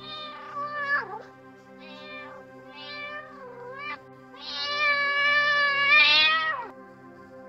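Kitten meowing four times: three short cries in the first four seconds, then a long, loud meow of about two seconds that falls in pitch at its end. Soft background music plays underneath.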